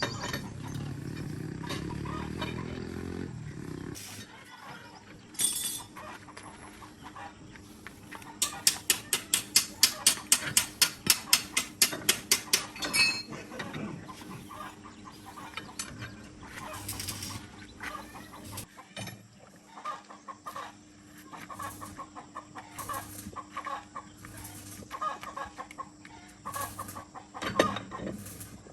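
Chickens clucking on and off. A low steady machine hum stops about three and a half seconds in, and a loud run of rapid knocks, about four or five a second, lasts some four seconds near the middle.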